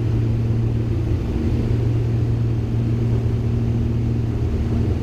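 Twin piston engines of a Beechcraft G58 Baron heard from the cockpit, a steady low drone with an even hum that holds its pitch.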